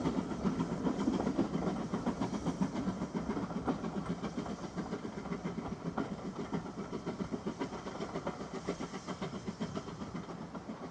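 Steam-hauled train running along the line with a rapid, even rhythmic beat, fading steadily as it draws away.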